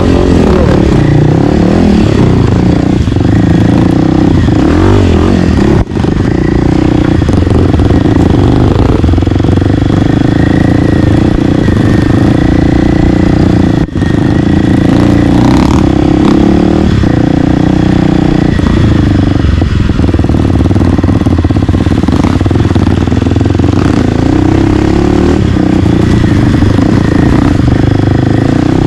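Single-cylinder four-stroke dirt bike engine running under way on a trail ride, holding a fairly steady pitch, with two brief dips in level, about 6 and 14 seconds in.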